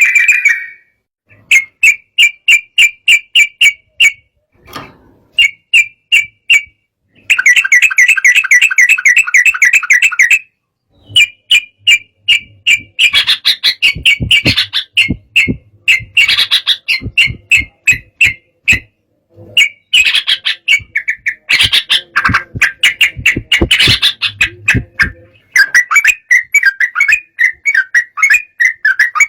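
Yellow-vented bulbul (trucukan) giving loud, agitated chattering song. Rapid runs of bubbling notes, about five a second, come in bursts separated by short pauses. It is the 'emosi' call used to provoke a rival bird into singing.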